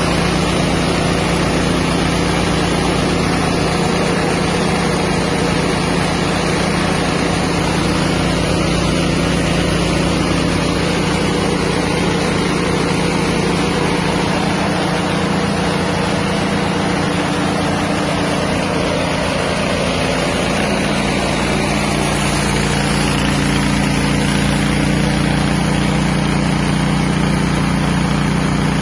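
A small engine-driven rice milling machine running steadily, its engine running continuously under the noise of the milling. The engine note shifts slightly about two-thirds of the way through.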